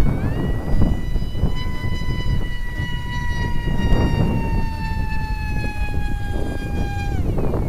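Electric motor and propeller of a ParkZone Stryker Q RC flying wing whining under power. The pitch jumps up at the start, sags slowly, then drops away near the end as the throttle is cut. Heavy wind rumble on the microphone runs underneath.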